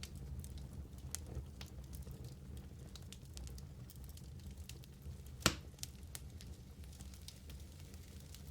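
Fire burning in a fireplace, crackling with small irregular pops over a low, steady rumble, and one sharp, louder pop a little past halfway.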